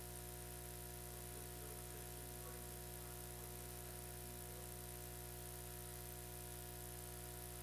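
Steady electrical mains hum and buzz on the audio feed, a stack of fixed tones over a faint hiss.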